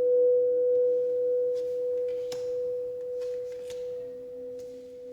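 A steady, pure ringing tone that slowly fades, with a weaker lower tone pulsing beneath it, and a faint click a little over two seconds in.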